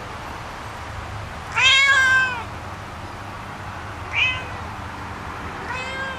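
Domestic cat meowing three times: a long, loud meow that rises and falls about a second and a half in, a short meow around four seconds, and another starting near the end, over a steady low hum.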